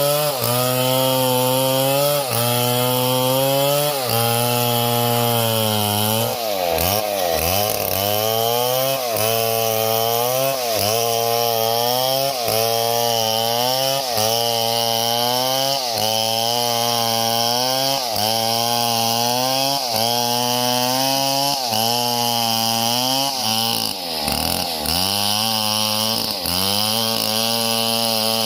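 Small two-stroke chainsaw running hard through wood. Its engine pitch sags and recovers about once a second as the chain bites and frees, with two deeper dips where the engine bogs under heavier load.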